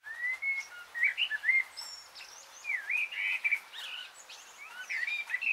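Birdsong: several birds chirping and whistling in short calls that slide up and down in pitch, over a faint hiss. It starts abruptly out of silence.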